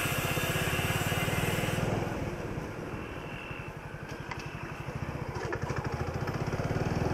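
Honda Pridor 100cc single-cylinder four-stroke motorcycle engine running while the bike is ridden, heard from the handlebars with an even firing pulse. About two seconds in the engine note drops and goes quieter, then builds again toward the end.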